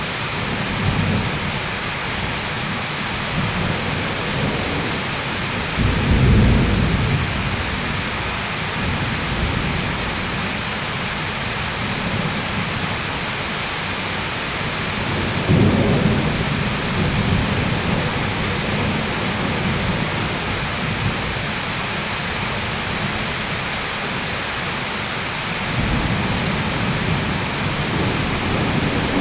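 Heavy rain falling steadily, with thunder rumbling three times: a roll about six seconds in, a sharper clap around the middle, and a longer rumble starting near the end.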